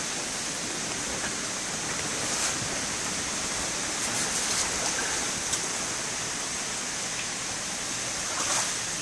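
Heavy rain falling steadily into standing water, with a stiff-bristled push broom swishing the water across a flooded concrete floor.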